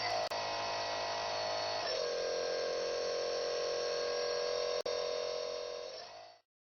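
Small electric model-airplane motor whining steadily, its pitch stepping down about two seconds in, then fading out near the end.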